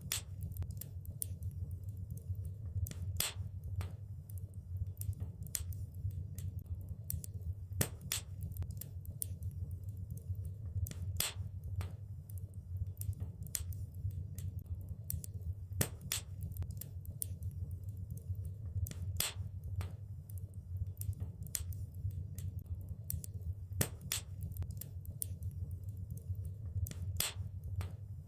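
Wood fire burning in a fireplace: a steady low rumble under scattered sharp crackles and pops, with a louder pop every few seconds.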